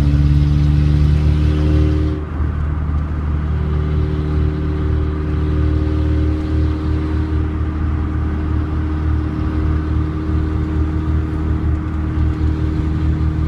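Mini truck driving at a steady cruise: engine running at a constant pitch over a heavy rumble of road noise, louder and brighter for the first two seconds.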